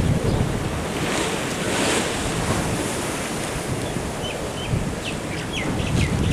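Ocean waves washing in, with wind buffeting the microphone as a steady low rumble. A few short high chirps come in the second half.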